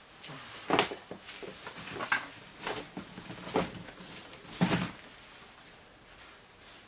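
Climbing gear being handled and packed: a string of separate knocks and clatters, about seven in the first five seconds, the loudest about a second in and just before five seconds, then it goes quiet.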